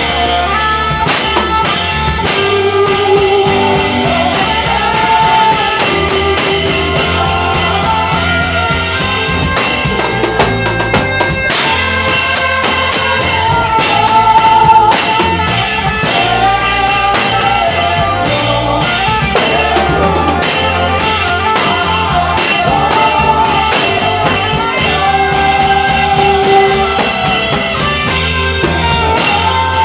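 Gospel instrumental music: a saxophone plays slow, held melody notes with vibrato over a drum kit and guitar backing.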